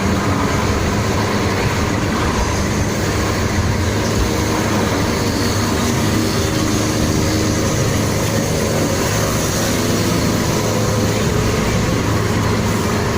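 Steady engine hum and road noise of a vehicle driving at highway speed, with no change in pitch or level.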